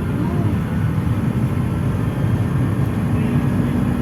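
Interior noise of a PAZ-422320-14 Citymax 9 city bus under way: a steady low rumble of engine and road.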